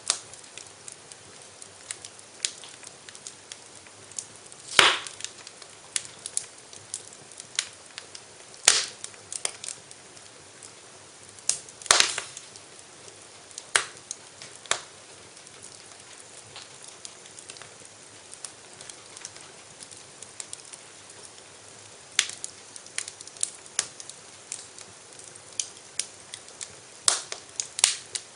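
Wood fire in a fireplace crackling, with sharp irregular pops over a soft steady hiss. A few louder snaps stand out in the first half, the crackle thins for a while, then picks up again near the end.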